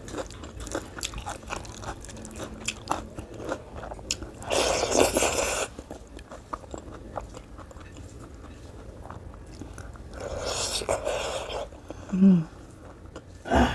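A person eating, close to the microphone: chewing with many small mouth clicks, and two louder noisy stretches about five and eleven seconds in.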